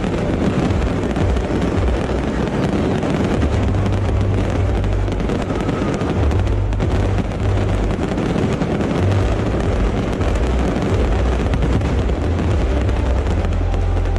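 A loud, unbroken barrage of fireworks: many overlapping bangs and crackles over a deep rumble.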